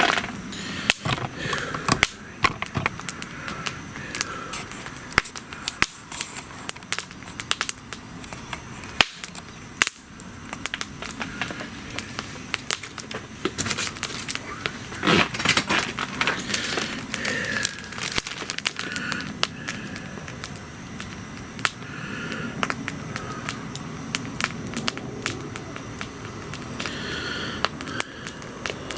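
Wood bonfire crackling, with irregular sharp pops of burning wood.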